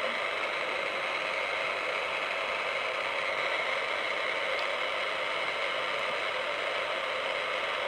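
Steady hiss of band noise from a shortwave (HF) amateur radio receiver's speaker, with no station on frequency. The noise is confined to the radio's narrow voice passband.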